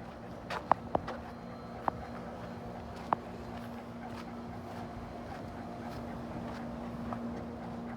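A steady, even hum, like a small motor running, with several sharp clicks in the first few seconds and one more near the end.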